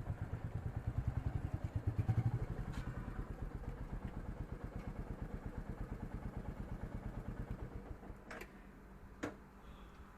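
Royal Enfield Meteor 350's single-cylinder engine idling with an even pulse. It rises briefly about two seconds in and drops away about eight seconds in, followed by two sharp clicks.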